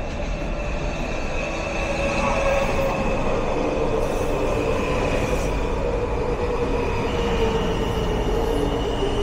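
WMATA 6000 Series Metro train pulling into a station over a steady rumble, with a weird whine at two pitches, one middle and one high. The high whine steps up in pitch about seven seconds in.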